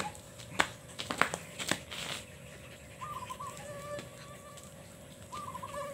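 A few sharp knocks in the first two seconds. A bird then gives two wavering held calls, one about three seconds in lasting about a second, and one near the end.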